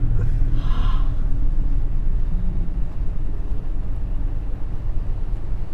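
Steady low rumble of a Mitsubishi Delica Mini's engine and road noise heard inside the cabin, with a short hiss about a second in.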